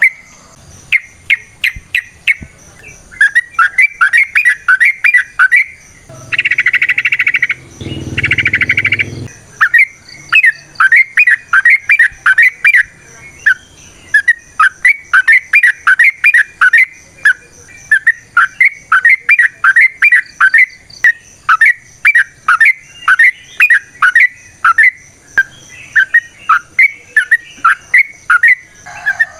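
Yellow-vented bulbul (trucukan) singing a long run of rapid, sharp repeated notes, about four or five a second. Two harsh rasping bursts come about a third of the way in, over a faint steady high-pitched insect-like drone.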